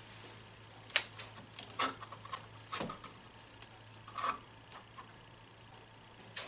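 A few separate light clicks and knocks, roughly one a second, from photography gear being handled and adjusted, over a steady low hum.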